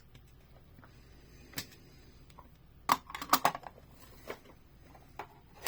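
Light clicks and taps of small hard objects being handled: a single click, then a quick cluster of several clicks, then two more spaced out.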